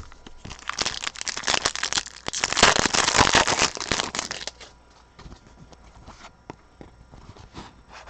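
A trading card pack's wrapper crinkling and tearing as it is opened: a dense crackle for about four seconds, then a few light handling clicks.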